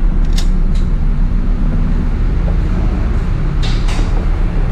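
Steady, loud low drone of a ship's running engine-room machinery carried through the vessel, with a few short clicks or knocks near the start and again near the end.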